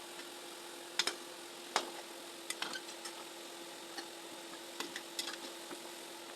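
Chin chin dough pieces deep-frying in oil: sharp pops and clicks at irregular moments over a low steady hiss.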